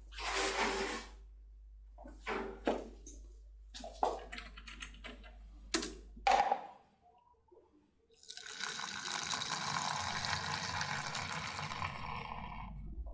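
A few short knocks and clicks, then a pause, then a drink machine pouring liquid into a cup in a steady stream for about four and a half seconds, stopping just before the end.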